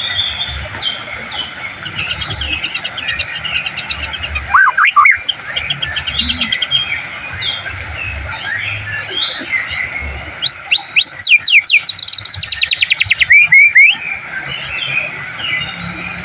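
White-rumped shama (murai batu) in full song: a continuous, varied run of whistles and chatter, with a loud passage of rapid sweeping notes and a fast trill from about ten to fourteen seconds in.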